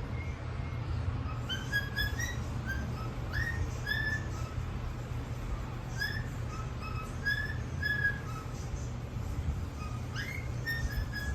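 A whistled tune of short notes, some sliding up into held notes, with gaps between phrases.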